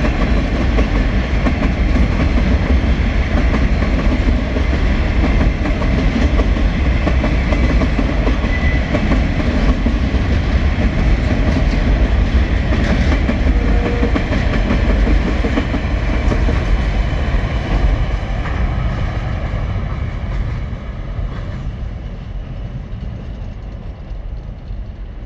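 Container wagons of a freight train rolling past with a steady rumble and the clack of wheels over the rails, fading away over the last several seconds.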